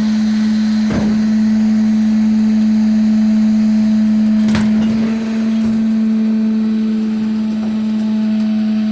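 Garbage truck engine held at high revs to drive the hydraulics while the dumpster is lifted high overhead, a loud, steady drone on one pitch. Two short knocks, about a second in and about four and a half seconds in.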